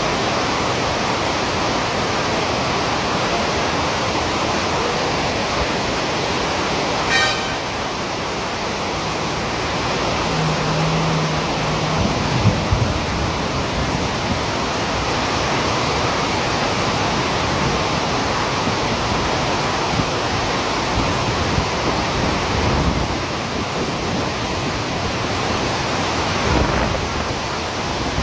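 Heavy rain falling steadily, a dense even hiss, with passing road traffic. A sharp click comes about seven seconds in, and a brief low tone sounds around eleven seconds.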